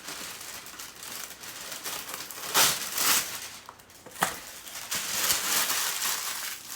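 Parchment paper crinkling and rustling as it is handled over a baking tray, loudest about two and a half seconds in, with a sharp click a little later.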